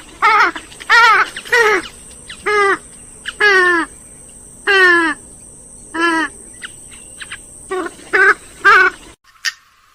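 Grey-headed swamphen calling: a run of about eleven loud, nasal calls, each sliding down in pitch, roughly one a second.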